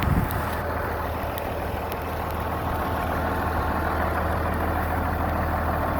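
Farm tractor engine running steadily at a low idle-like note, with a brief low thud right at the start.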